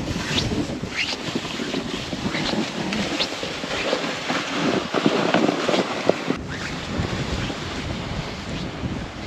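Wind buffeting the microphone, with irregular rustling.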